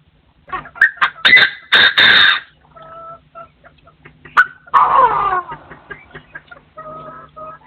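Partridge calling: several loud, harsh calls in the first two and a half seconds, a single falling call near the middle, then softer repeated notes near the end.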